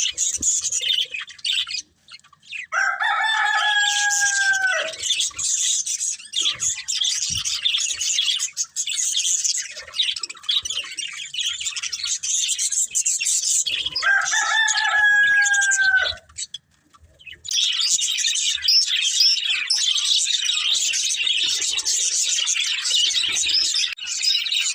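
A flock of budgies chirping and warbling in a constant high chatter. Twice, about ten seconds apart, a longer, lower call of about two seconds rises above the chatter and falls slightly in pitch.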